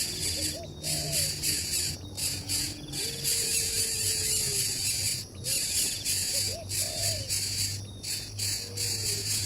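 Dense, steady insect chorus with a brief dropout every second or two, and a short low call repeating every two to three seconds.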